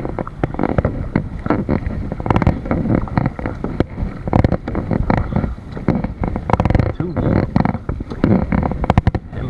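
Water splashing and lapping around a kayak under way, with many irregular short knocks and splashes.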